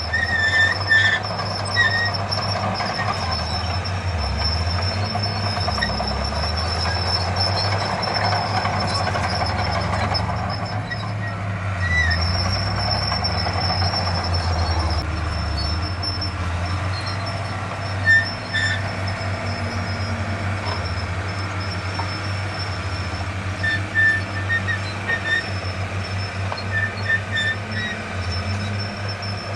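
Heavy earthmoving machinery working: a diesel engine running steadily under a continuous high metallic squeal, with short squeaks now and then.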